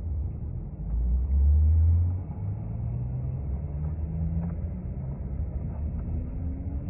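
City bus engine and drivetrain heard from inside the bus as it pulls ahead. A low rumble swells about a second in, then a tone climbs steadily in pitch as the bus gathers speed.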